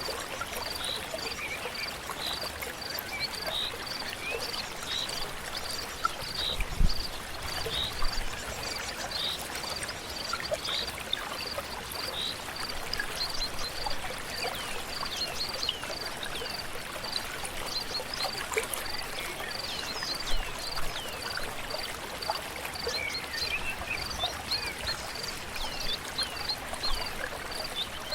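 A river or stream flowing steadily, with birds calling in short falling chirps over it and a high pip repeating evenly about twice a second. A brief low thump about seven seconds in.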